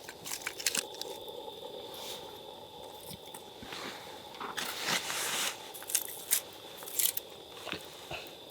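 Irregular crackling and crunching clicks of kindling in a freshly lit campfire, with a longer rushing noise about five seconds in.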